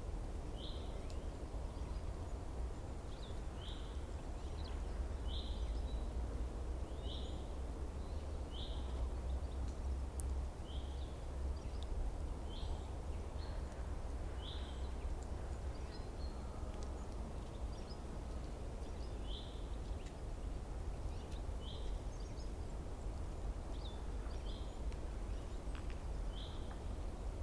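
A small bird giving short, high call notes over and over, about one every second or two with a brief pause midway, over a steady low outdoor rumble.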